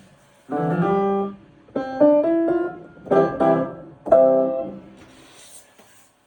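Piano chords played one after another with short gaps between them, some with a few notes moving inside the chord. The last chord is left ringing and fades away.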